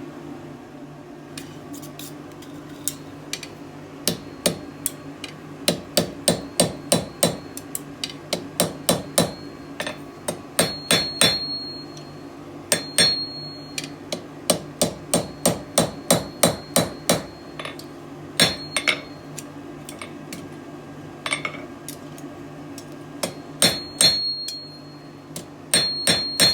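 Blacksmith's hammer striking the hot tang of a forged fire steel on the step of the anvil, bending it over to a right angle. The blows come in runs of about three a second with short pauses between them, and some leave a brief high ring.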